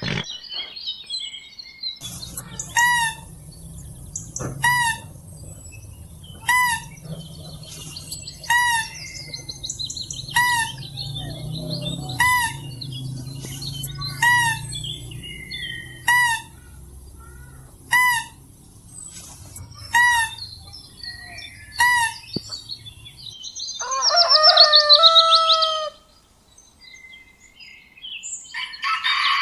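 Bird calls: a short, hooked call repeated about every two seconds for some twenty seconds over other chirping, then a louder, longer call lasting about two seconds.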